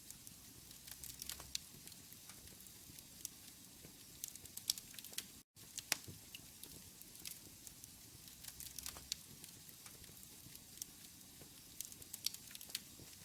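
Wood fire in a fireplace crackling: a low steady hiss with irregular sharp pops and snaps. The sound cuts out completely for a split second about five and a half seconds in.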